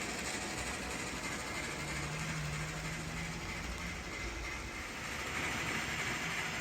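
Model train running on layout track: a steady rolling and motor noise, with a low hum that comes in about two seconds in and fades about two seconds later.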